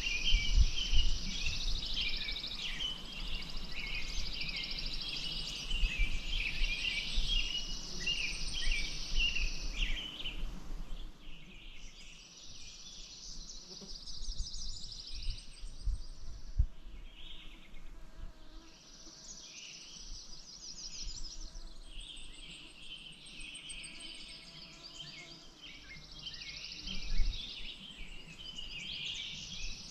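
Birds singing in a busy chorus, with high chirps and long trills in phrases lasting several seconds, busiest for the first ten seconds or so and thinner after that. A low, uneven rumble runs underneath.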